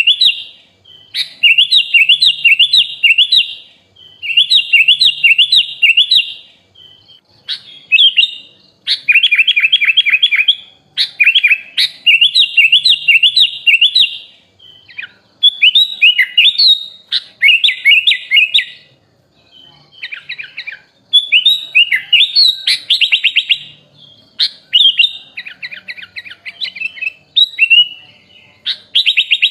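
Sooty-headed bulbul (kutilang) singing a loud, varied song: phrases of quick repeated notes a second or two long with short pauses between, some with rapid trills, mixed with fill-in phrases copied from other birds.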